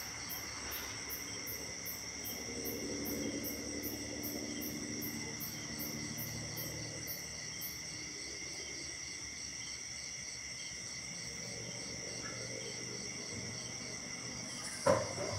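Night chorus of crickets and other insects trilling steadily. A very high pulsing call at about three pulses a second runs through the first half and then stops. A faint low drone swells and fades, and a single sharp knock near the end is the loudest sound.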